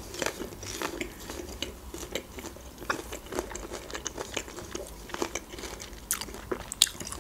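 Close-miked chewing of soft layered cake, made of many small wet mouth clicks. A fork clinks against the plate a couple of times about six seconds in.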